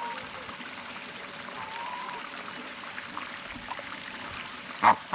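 Water trickling steadily, with a faint whistled bird note about two seconds in and two short, loud bird calls in quick succession near the end.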